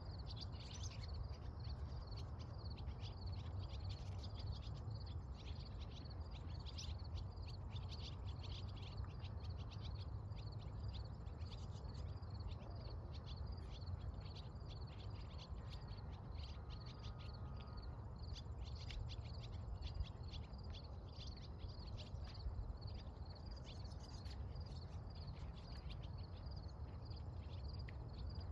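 Steady chorus of short high-pitched chirps, repeating about four times a second without a break, which the uploader takes for nightingales singing, over a low steady rumble.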